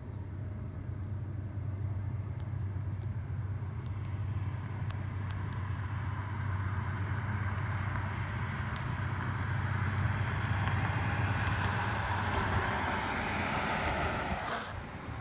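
Distant train passing at night: a steady low rumble, with a rushing noise that swells for about ten seconds and then drops off suddenly about a second before the end. No horn is sounding.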